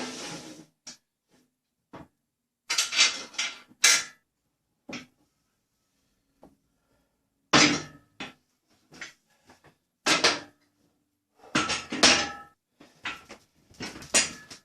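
Irregular knocks, scrapes and clatter of objects being handled, in short clusters with pauses between.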